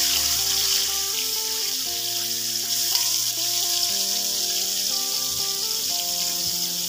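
Chopped tomato frying in hot oil in a wok, a steady sizzling hiss, under background music of held notes.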